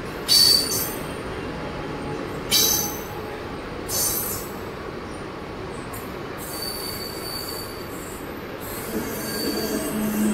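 Central Railway suburban EMU local train rolling slowly past, a steady running rumble broken by sharp, high-pitched metal squeals about half a second in, at two and a half seconds and at four seconds, with a thinner, fainter squeal later on.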